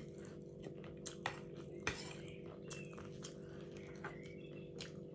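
Eating at close range: chewing with scattered light clicks of cutlery against a plate, over a steady low hum.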